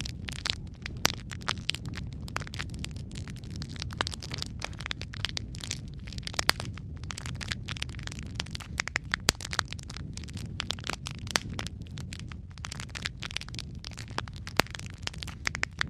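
Wood fire in a fireplace crackling: dense, irregular snaps and pops over a steady low rumble of the flames, with a few louder sharp pops now and then.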